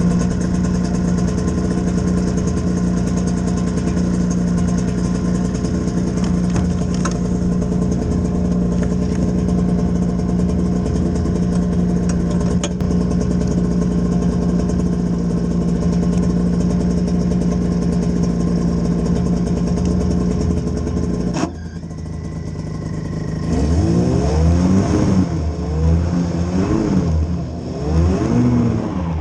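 Vehicle engine idling steadily, then after an abrupt break about 21 seconds in, revving up and down repeatedly, its pitch rising and falling several times.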